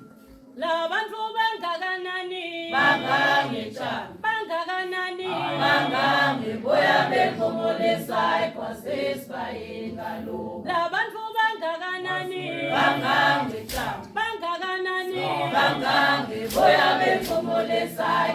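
A group of voices singing together a cappella, in phrases separated by short pauses.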